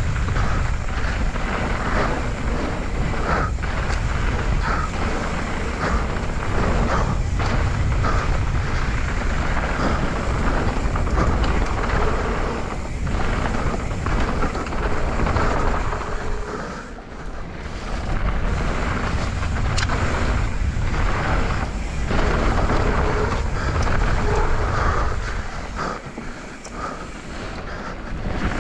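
Wind buffeting the camera microphone and knobby mountain-bike tyres rumbling over a dirt trail on a fast downhill run. The rumble eases briefly about two-thirds of the way through and again near the end.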